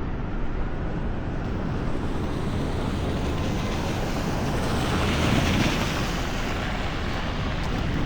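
Steady rush of wind on the microphone mixed with traffic noise on a snowy street. A hiss swells and fades about five seconds in.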